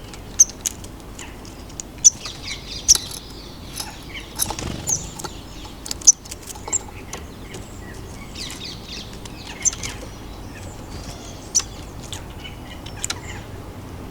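Small garden birds at a feeder: scattered short, high chirps and calls mixed with sharp taps and brief wing flutters as birds come and go, the loudest about two and six seconds in.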